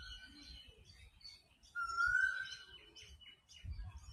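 Birds calling: one bird repeats a clear whistled note about a second long that rises slightly, heard at the very start and again about two seconds in, over fainter high chirping from other birds.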